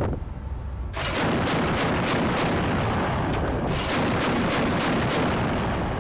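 Rapid gunfire: many sharp shots in quick, uneven succession over a dense rumble, breaking in suddenly about a second in after wind noise.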